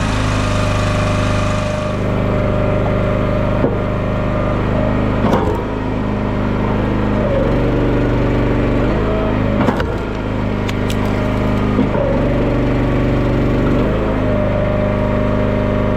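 Engine-driven hydraulic log splitter running steadily, its engine note sagging briefly several times as the ram takes load, with a few sharp cracks of firewood splitting.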